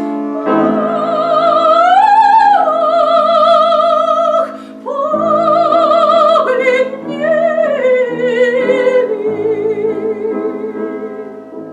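Classical, opera-style solo singing in a high voice with strong vibrato on long held notes, over a steady instrumental accompaniment; after a short break about halfway the phrase resumes, and a last held note fades away near the end.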